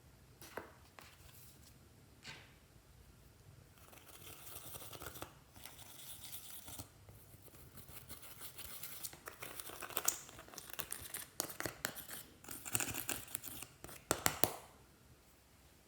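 Hands working glossy slime: sticky crackles, clicks and small pops. They are sparse at first and grow dense from about four seconds in, with a few sharp snaps near the end.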